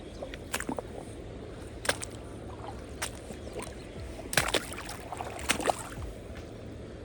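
Steady rush of flowing river water, with several short sharp clicks or knocks scattered through it.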